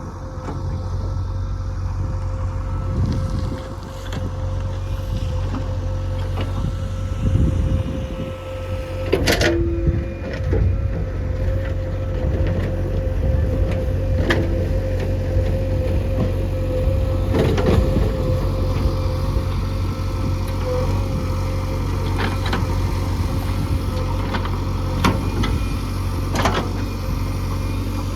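A heavy diesel engine of earthmoving machinery runs steadily with a constant low hum, broken by a few sharp knocks, the clearest about 9, 17 and 26 seconds in.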